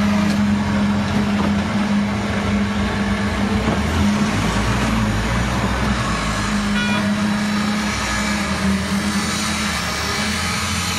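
Truck-mounted concrete mixer pump running: a loud, steady machine drone with a strong low hum. About four seconds in the hum fades and a deeper rumble takes over, and the hum comes back by about six and a half seconds.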